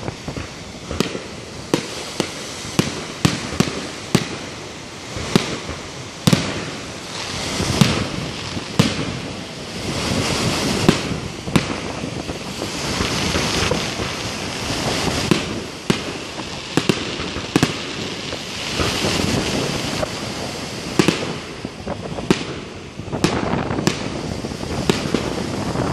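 Aerial firework shells bursting in quick succession: dozens of sharp bangs, some close together, with a rolling wash of sound between them.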